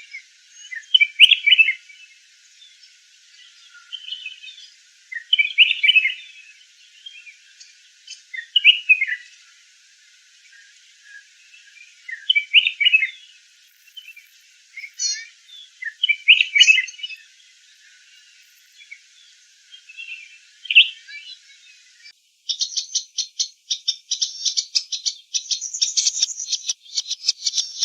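Red-whiskered bulbul singing short, warbled phrases, one every two to four seconds. About 22 seconds in, the sound switches abruptly to a fast, even train of high, sharp notes that runs on without pause.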